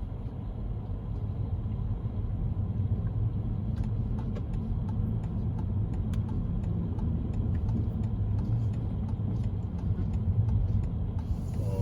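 Cabin noise of a Toyota Camry on the move: a steady low road and engine rumble, with a scatter of faint clicks, most of them about four to six seconds in.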